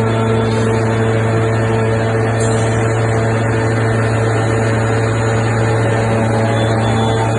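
A 6000-ton rail-end forging hydraulic press's machinery runs with a loud, steady drone: a strong low hum with steady higher tones above it.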